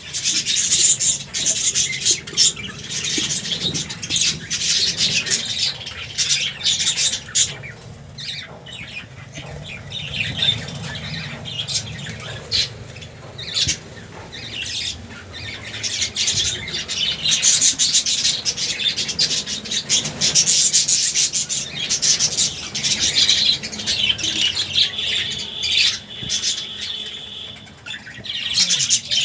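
Budgerigars chirping and chattering continuously, with frequent sharp squawks.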